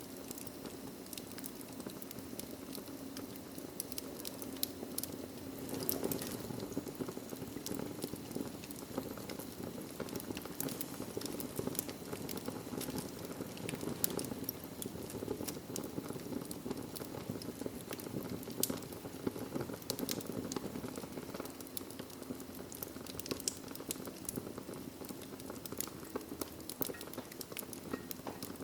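Wood fire in a fireplace crackling, with frequent irregular sharp pops over a steady low rush of burning.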